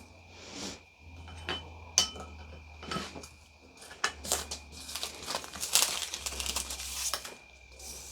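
Handling noises at a cake-decorating bench: crinkling, with a few sharp clicks and a busier stretch of crackling about five to seven seconds in. A faint steady high whine runs underneath.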